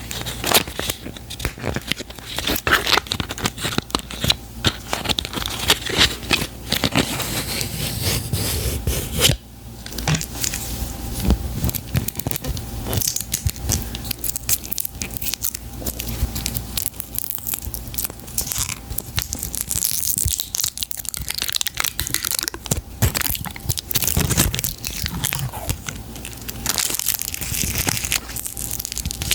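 Packaging being handled and torn open by hand: continuous close-up crinkling and tearing with many small crackles, pausing briefly about nine seconds in.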